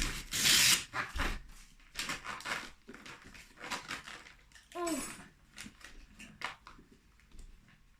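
Wrapping paper and packaging rustling and crinkling in irregular bursts as a present is unwrapped and handled. There is a short falling vocal sound about five seconds in.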